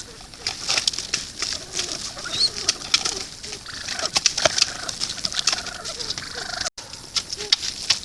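Pheasants feeding at a grain feeder: many quick pecking and scratching taps mixed with short clucking calls. A brief high chirp comes about two and a half seconds in, and the sound drops out for an instant near the end.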